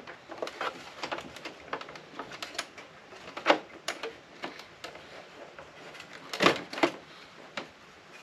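Irregular clicks and knocks of hands and a screwdriver working on the casing of an APC battery backup unit as it is taken apart. A sharper knock comes about three and a half seconds in, and a few more come together near the end.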